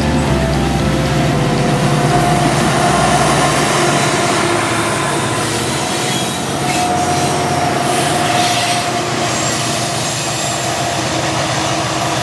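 Freight train cars rolling past on a curve, the wheels rumbling with a steady high flange squeal that comes and goes twice.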